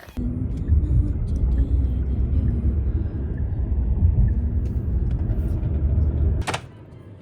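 A loud low rumble, like a vehicle in motion, starts suddenly and runs steadily for about six seconds, then cuts off with a sharp click near the end.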